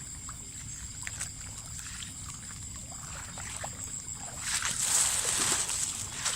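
Water sloshing and splashing with small knocks, growing louder about four and a half seconds in, over a steady high-pitched insect trill.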